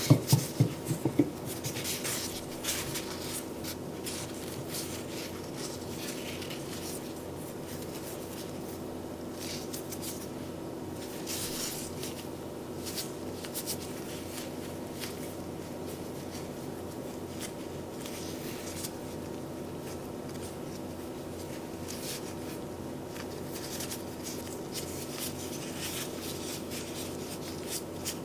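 Soft, intermittent rubbing and scraping sounds of hands working in a kitchen, over a steady electrical hum. A few sharp knocks come in the first second.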